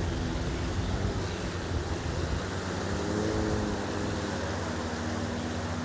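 Boat engine running steadily with a low hum, over a haze of beach noise.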